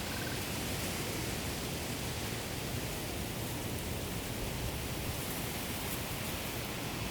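Wind blowing through a field of ripe rice, a steady, even rustling hiss. A faint short chirp sounds right at the start.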